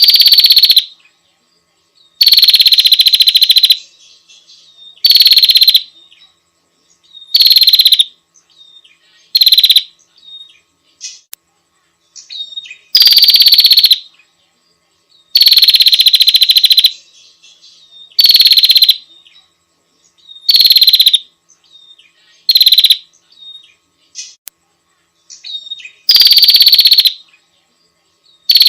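Female prinia (prenjak) calling: a loud, buzzy rapid trill lasting up to about a second and a half, repeated about a dozen times, roughly every two seconds, with short faint chips between the bursts.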